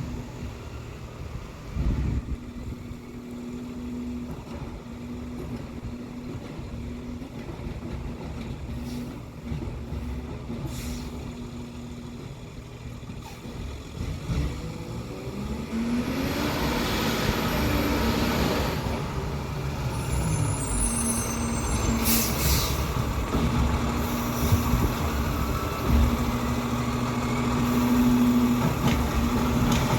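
Freightliner 108SD side-loader garbage truck with a Ginove RotoPac body running steadily. About halfway through, the engine revs up under a loud rush of noise for a few seconds and then settles, and a short air hiss follows.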